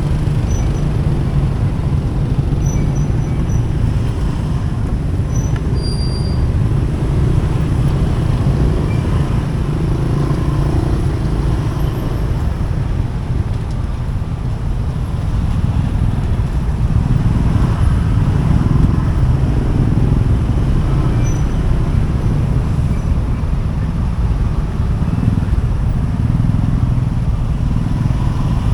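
Steady rumble of road traffic heard from a moving motorcycle: engine and tyre noise with passing cars and motorbikes, heaviest in the low end and without breaks.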